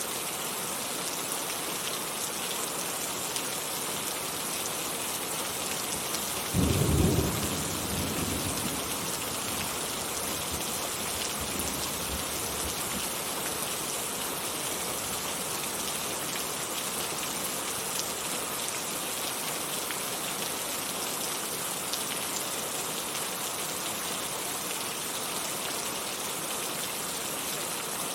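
Heavy rain falling steadily, with one sudden clap of thunder about six seconds in that rumbles away over the next two seconds.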